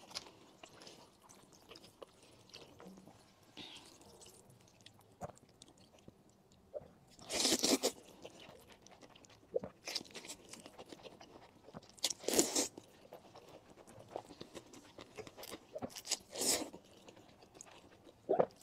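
Close-miked mukbang eating: bites and chewing in separate crunchy bursts with quiet stretches between them, the longest about seven seconds in and another loud one about twelve seconds in.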